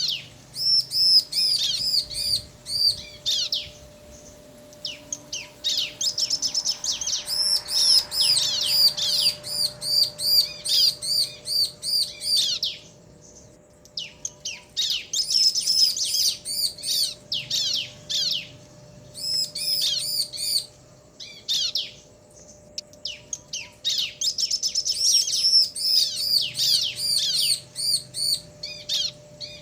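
Bar-winged prinias, male and female, calling back and forth in long bouts of rapid, high, repeated chirps, broken by short pauses about four, thirteen and twenty-two seconds in. A faint steady hum runs underneath.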